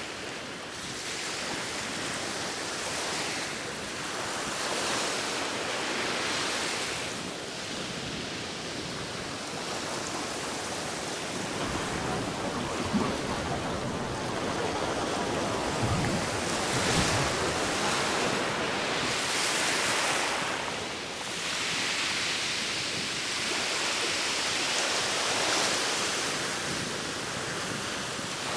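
Ocean surf washing ashore in repeated swells, each rising and falling over a few seconds.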